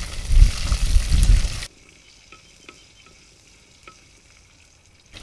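Wooden spoon stirring shallots, black pepper and cumin frying in sesame oil in a clay pot, with scraping and sizzling. About a second and a half in, the sound drops suddenly to a faint sizzle with a few small pops.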